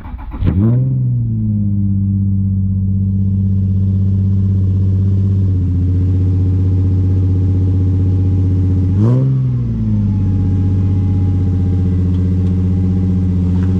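Car engine starting up. The revs flare briefly as it catches, then settle to a steady idle. A short blip of the throttle comes about nine seconds in, and then it idles again.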